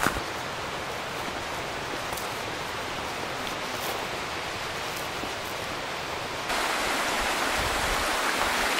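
Steady rushing of a mountain creek, which jumps louder about six and a half seconds in.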